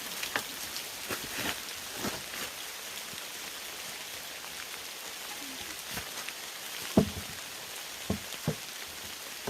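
Steady rain falling, a constant hiss, with a few sharp knocks and clatters from camp gear being handled, the loudest about seven seconds in.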